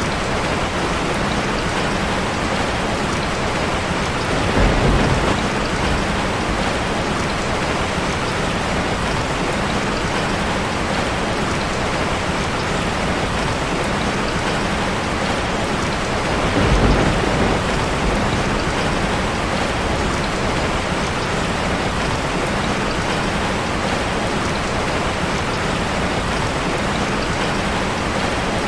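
Steady, dense rain drumming on a metal roof, with two short, low swells in loudness, one about five seconds in and one about seventeen seconds in.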